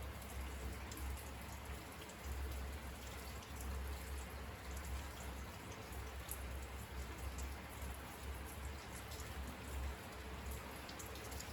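Steady rain falling, with single drops heard as sharp ticks over an even hiss, and an uneven low rumble underneath.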